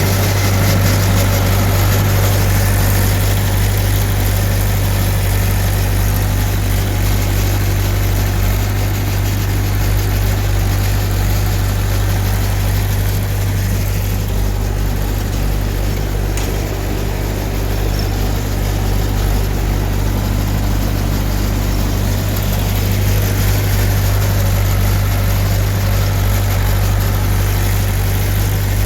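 Tractor engine running steadily with a deep, even hum, easing slightly about halfway through before picking up again.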